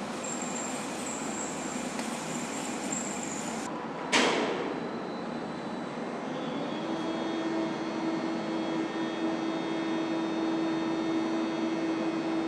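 Rail-car workshop machinery noise: a steady hiss, a single sharp knock about four seconds in, then a steady hum from about seven seconds on.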